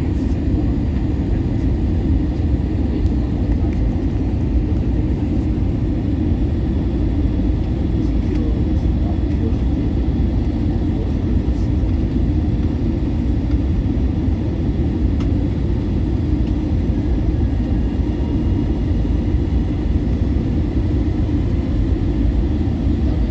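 Jet airliner cabin noise on the approach to landing: a steady low rumble of engines and airflow heard from inside the passenger cabin.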